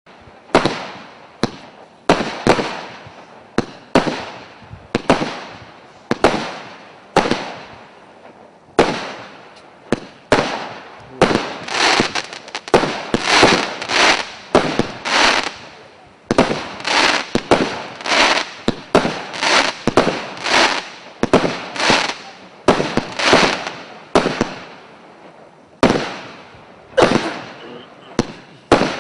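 MC112 multi-shot fireworks battery firing shot after shot, each sharp report trailing off quickly. The shots come about one a second at first, run faster and denser through the middle, and pause briefly near the end before resuming.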